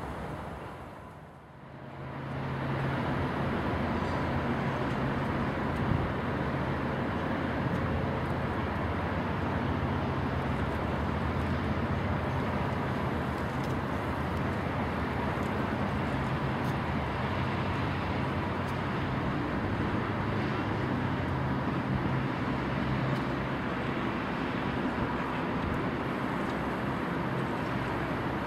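Steady, distant rumble of a VIA Rail passenger train crossing a bridge, with a low engine drone underneath, starting after a brief dip about a second and a half in.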